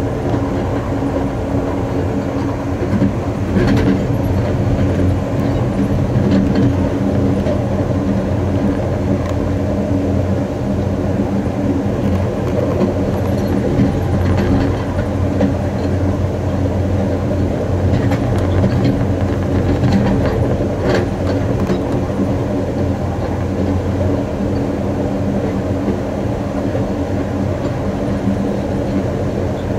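Amtrak Coast Starlight passenger train running at speed, heard from its rear car: a steady rumble of wheels on rail with a few sharper clicks and knocks now and then.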